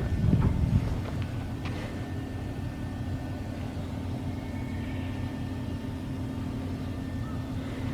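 Steady low mechanical hum of running machinery, with a louder rumble in the first second and a few short clicks soon after.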